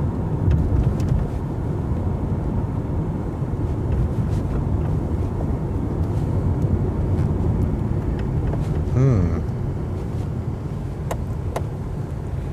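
Car driving along, heard from inside the cabin: a steady low engine and road rumble with a few sharp clicks and rattles, and a brief wavering pitched sound about nine seconds in.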